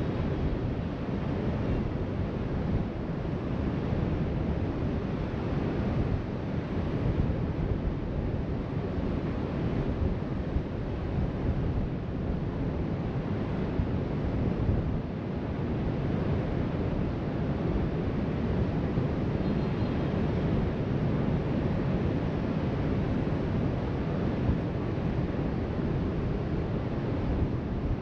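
Steady wash of ocean waves breaking along the beach, heard from a height, mixed with wind buffeting the microphone.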